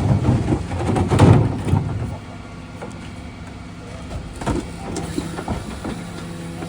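Dennis Elite refuse truck at work on a collection. For the first two seconds there is loud clatter and knocking over the running engine. Then it drops to a quieter steady hum with a few sharp clicks.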